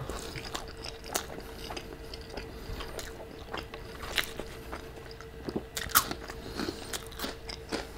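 Close-up chewing of crunchy Hot Cheetos: a run of small, sharp crunches and mouth clicks at an uneven pace, a couple of them louder near the middle, over a faint steady hum.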